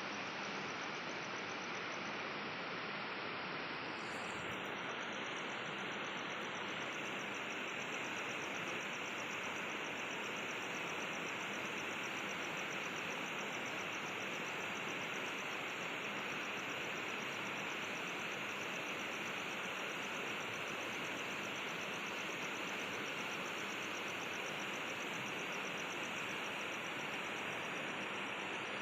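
Steady rushing outdoor ambience with a high, fast-pulsing insect trill that comes in about four seconds in and carries on.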